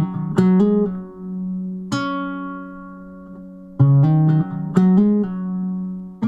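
Background music played on a plucked string instrument, a guitar-like tune of quick plucked notes with a long ringing note in the middle.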